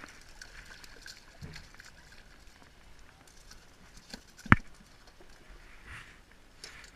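A single sharp knock about four and a half seconds in, over faint scattered tapping.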